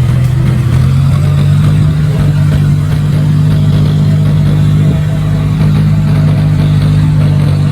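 John Deere 5055E tractor's three-cylinder diesel engine running at a steady speed.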